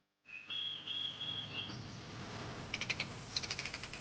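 Outdoor field ambience with a low, steady background. A high, steady whistling call comes in early and lasts about a second. Later come two short runs of rapid high clicking, like an insect's trill.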